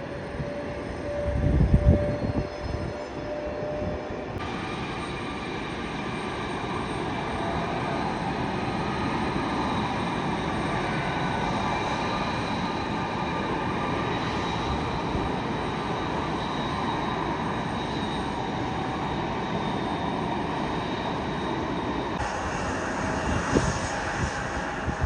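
Jet airliner engines running steadily: a broad rush with high whining tones held over it. A few low thumps about two seconds in are the loudest moment.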